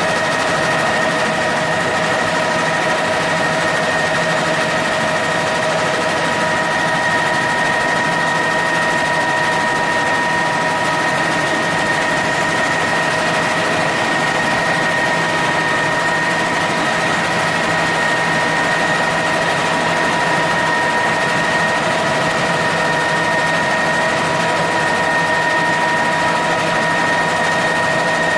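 Helicopter in flight: a steady engine din with a constant high whine that holds unchanged throughout.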